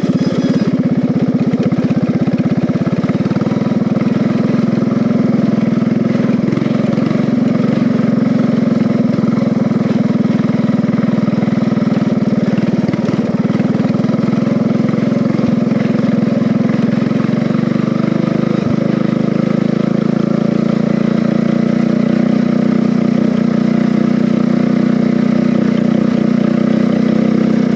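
A converted riding lawn mower's engine runs steadily and loudly as the race mower is driven, holding an even pitch.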